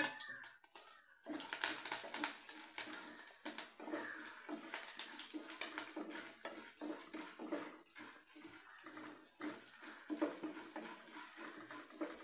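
Curry leaves and chana dal sizzling and crackling in hot oil with popped mustard seeds in a stainless-steel kadai, while a wooden spatula scrapes and stirs them in repeated strokes. The sizzle flares up about a second in, then slowly settles.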